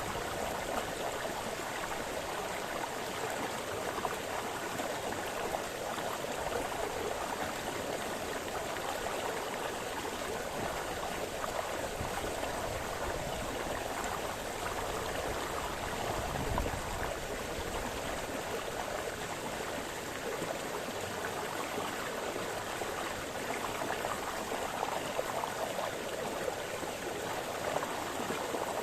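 Small brook splashing and burbling steadily over stones, a continuous rush of running water. About halfway through there is a brief low rumble.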